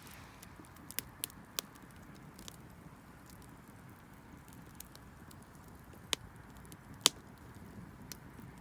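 Wood fire crackling, with sharp pops over a faint hiss: three pops close together about a second in, then two more later on, the last the loudest.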